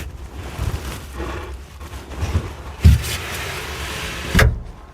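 Sliding side window of a mini excavator cab being opened by hand: a rubbing, scraping slide along its track, with a knock a little before three seconds in and a sharper knock near the end.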